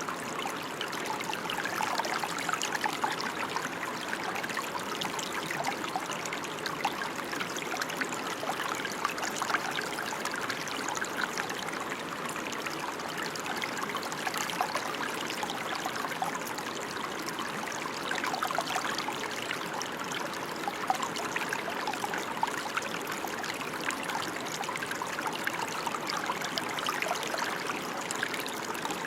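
Steady rain falling: an even, unbroken hiss of dense drops that stays the same throughout.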